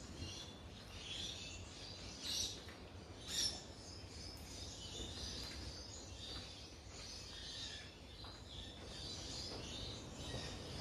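Faint bird chirps in the background over a low steady hum, with two brief rustles about two and three and a half seconds in.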